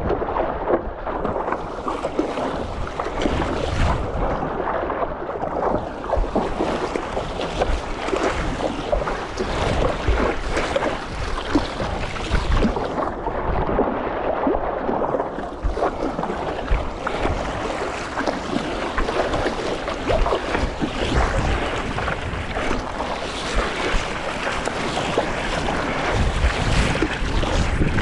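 Wind buffeting the microphone over water splashing and sloshing around a stand-up paddleboard on a choppy sea.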